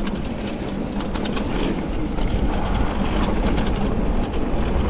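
Wind buffeting the microphone and an e-mountain bike rolling over a wet, rocky trail: a steady low rumble with scattered clicks and rattles.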